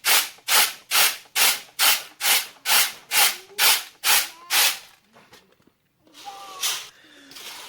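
Rhythmic rubbing or scraping strokes, about two a second, that stop about five seconds in. Near the end a chicken clucks faintly.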